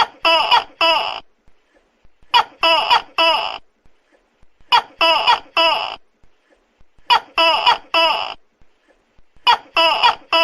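Tokay gecko calling very loudly. Each call is a quick run of three or four short notes, repeated five times at an even spacing of about two and a half seconds.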